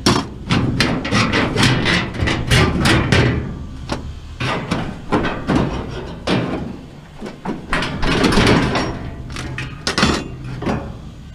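Rapid banging and clanking of a tool on metal as scrap is being knocked apart, in several bursts of quick strikes.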